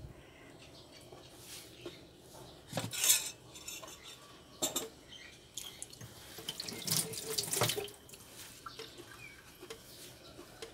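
Wet chewing and lip-smacking of someone eating coconut sticky rice, in irregular short bursts, the loudest about three seconds in and a longer run around seven seconds in.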